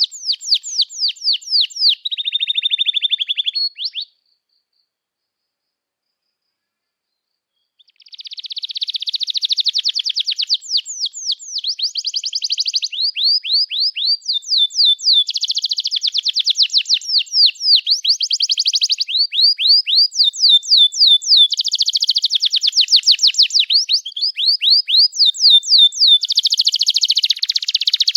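Domestic canary singing: long, fast trills of short down-sweeping notes and rolled passages, high-pitched. The song stops about four seconds in, is silent for about four seconds, then resumes and runs on in continuous trills.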